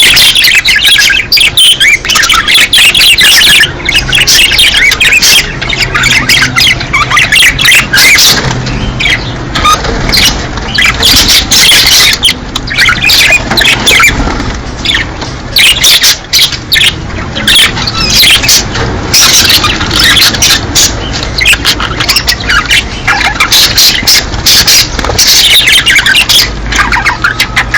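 Budgerigars chattering and warbling continuously in rapid chirps and squawks: breeding-season budgie chatter. A faint steady low hum runs underneath.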